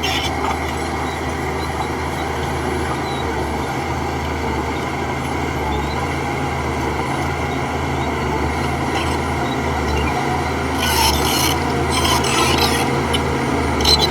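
Heavy diesel machine engine running steadily with a low drone and a grating, scraping rasp over it. Short bursts of high hissing or scraping noise come about three-quarters of the way through and again at the end.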